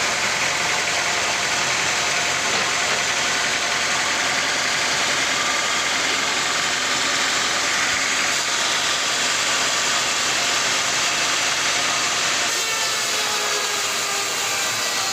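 Sawmill machinery running steadily, a loud engine-like drone with a broad noisy hiss; about twelve seconds in the low rumble drops away and the pitch begins to glide.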